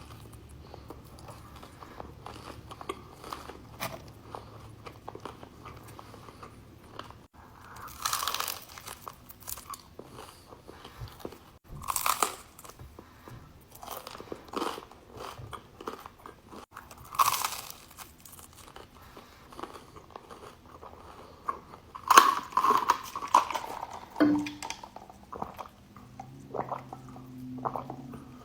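Crunchy food being bitten and chewed close to the microphone, with loud crunching bites every few seconds and quieter chewing in between.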